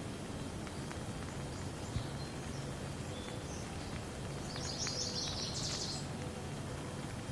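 Steady rain hiss with a few sharp drop ticks. A bird chirps in a quick cluster of high notes from about four and a half to six seconds in.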